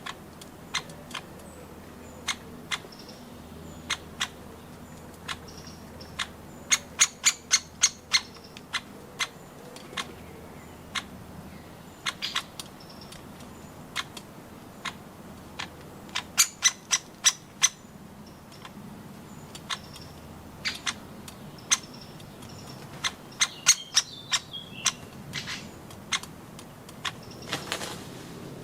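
Woodpeckers pecking at nuts: sharp knocks, some single and some in quick runs of five or six strikes. Faint bird chirps sound between the knocks.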